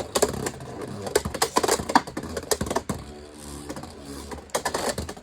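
Two spinning Beyblade tops, one of them 3D printed, clashing in a plastic Beyblade X stadium: rapid, irregular clacking hits, with a quieter spell of spinning whir past the middle before a few more hits near the end.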